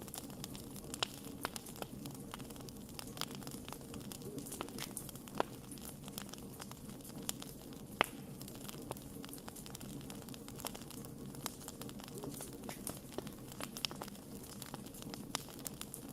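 Wood fire crackling steadily, with irregular sharp pops and snaps over a low, even rush of burning, and two louder pops about five and eight seconds in.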